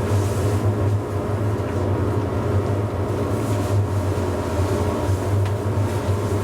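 Hakodate City Tram car 530 heard from its driver's cab: a steady low hum with a continuous rumbling noise over it.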